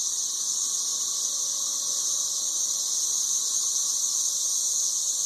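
Chorus of 13-year periodical cicadas: a steady, high-pitched drone that holds unbroken throughout.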